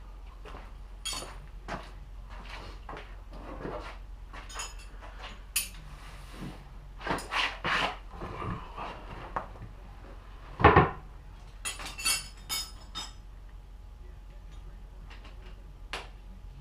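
Scattered metallic clinks and knocks of tools and metal parts being handled, with one louder knock about eleven seconds in. A low steady hum runs underneath.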